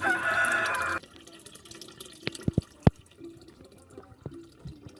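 Water dripping: a handful of separate drops plink, the loudest about three seconds in. Before them, a louder sound with several held tones cuts off suddenly at about one second.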